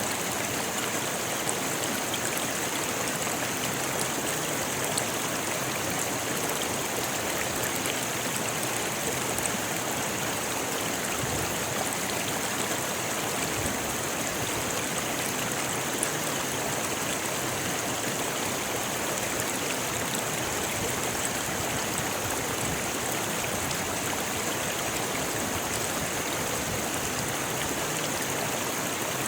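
A rocky river flowing over stones: steady rushing water with a faint patter of small splashes.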